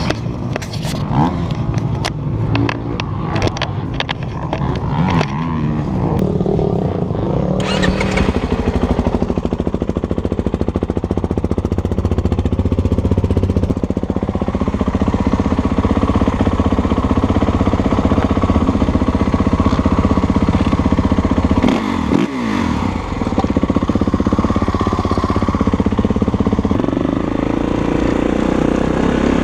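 Dirt bike engine running under throttle, with wind rushing over the microphone. The first few seconds hold scattered clicks and knocks; the engine note drops briefly about two-thirds of the way through, then picks up again.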